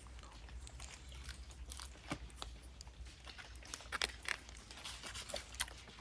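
A person chewing a mouthful of stuffed parasol mushroom close to the microphone, with irregular small crunches and clicks.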